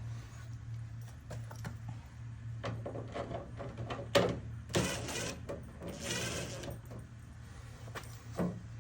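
Metal downspout elbow rattling, knocking and scraping as it is worked loose by hand, with scattered clicks and two brief harsher scrapes about five and six seconds in. A low steady hum sits underneath.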